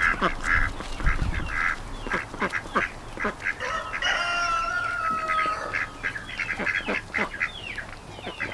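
A flock of domestic ducks quacking over and over in short calls, with one longer drawn-out call from about four to five and a half seconds in.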